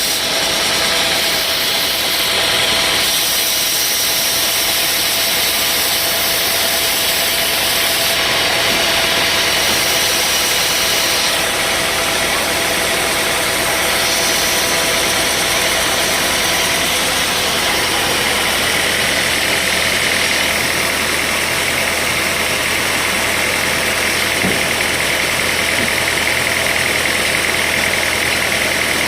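Sawmill machinery running steadily under engine power, a constant loud mechanical noise with a high whine over a hiss.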